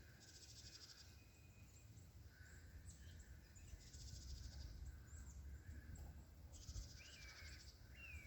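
Faint small-bird calls: three high, rapid buzzy trills of about a second each, and a couple of short falling chirps near the end, over a low background rumble.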